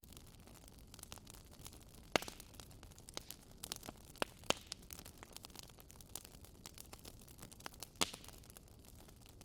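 Wood fire crackling in a fireplace: irregular sharp pops and snaps over a faint steady hiss, with two louder snaps, one about two seconds in and one near the end.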